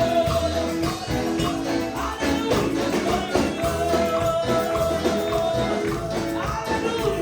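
Upbeat Pentecostal praise-chorus music with a tambourine shaking in rhythm over a steady bass beat and singing.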